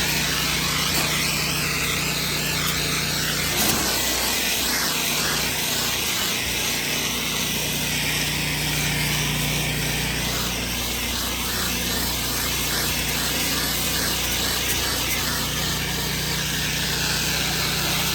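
Pressure washer running steadily, its engine hum under the hiss of the high-pressure water spray.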